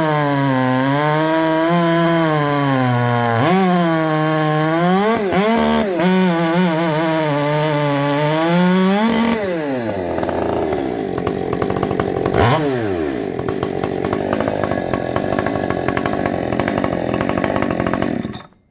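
Husqvarna 564XP two-stroke chainsaw with a muffler mod and base gasket delete, running hard and cutting with a 32-inch bar. Its engine pitch sags and recovers repeatedly under load. About halfway through the pitch drops away and the sound turns lower and rougher, with another sag and recovery, before it cuts off abruptly near the end.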